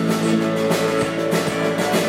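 Live rock band playing an instrumental passage with guitar, steady and loud, with regular beats.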